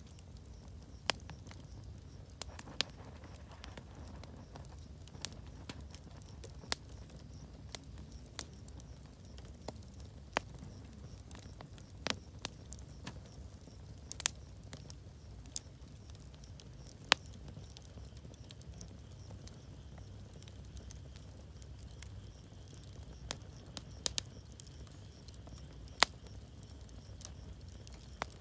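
Wood campfire crackling: sharp, irregular pops, roughly one every second or so, over a low steady rumble.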